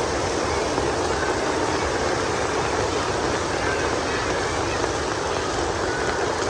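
Heavy rain falling steadily: a dense, even rushing hiss that does not let up.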